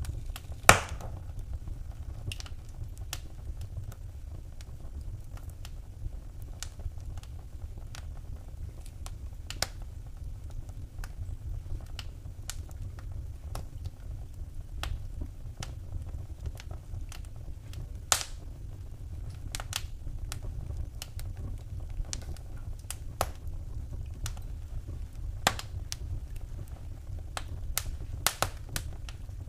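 Wood fire burning in a fireplace, crackling with irregular sharp pops, the loudest about a second in, over a steady low rumble of the flames.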